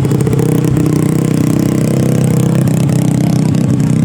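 Drag-racing motorcycle engine running loudly at a steady pitch.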